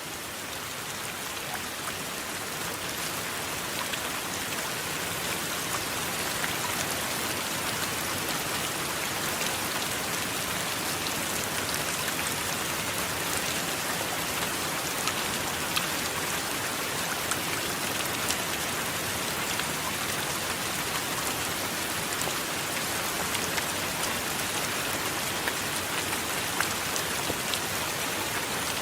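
Steady rain with many small drops pattering, building slightly over the first few seconds and then holding even.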